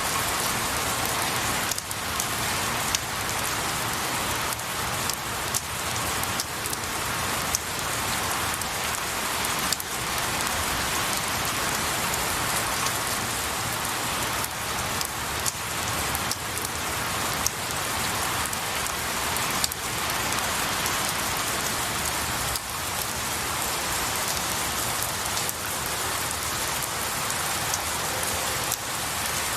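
Steady rain falling on pine needles and trees, with a dense patter and scattered louder single drops.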